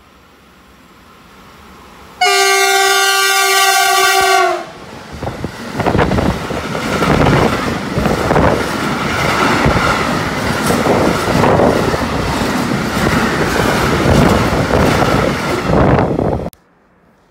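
Freight train passing at speed. Its locomotive gives one long horn blast about two seconds in, then a string of tank wagons goes by with loud, rhythmic wheel clatter over the rail joints. The sound cuts off suddenly near the end.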